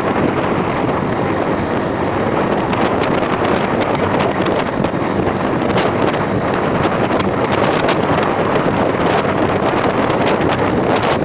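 Steady wind rushing over the microphone, as from riding in the open air, with scattered crackles and knocks through it.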